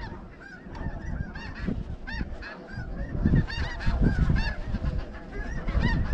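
A flock of snow geese calling, many short high honks overlapping continuously, growing louder from about halfway through, over a low rumble that rises and falls.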